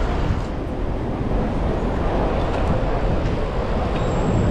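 Steady London street traffic noise heard from a moving bicycle, with a low wind rumble on the chest-mounted camera's microphone. A thin, high, steady whine starts near the end.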